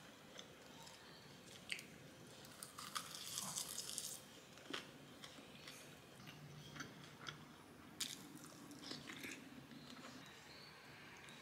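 Close-miked chewing of a bite of roasted-seaweed (gim) wrap, with a crunchy stretch about three to four seconds in. A few sharp clicks of tableware come between the bites.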